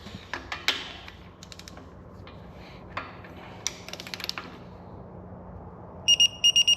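Torque wrench ratcheting in short runs of clicks while tightening turbo adapter bolts, then near the end a rapid string of loud, high electronic beeps as the digital torque wrench signals it has reached its 30 ft-lb setting.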